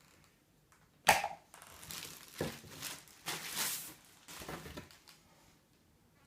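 Packaging being handled: a sharp knock about a second in, then a few seconds of irregular crinkling and rustling.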